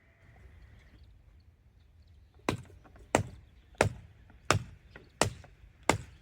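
Firewood being split by hand: six sharp chopping strikes in an even rhythm, about one every 0.7 seconds, starting about two and a half seconds in.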